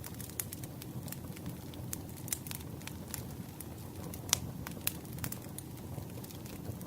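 Campfire crackling: irregular sharp pops and snaps over a steady low rumble of burning wood, with one louder pop about four seconds in.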